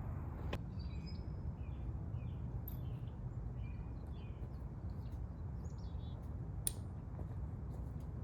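A small bird chirping, a series of short high notes, over a steady low rumble; two sharp clicks, one about half a second in and one near the end of the chirping.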